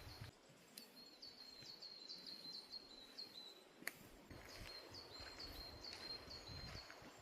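Faint bird chirps: a run of short, high notes, each sliding down, repeating about three times a second, over quiet outdoor ambience. A single sharp click about four seconds in.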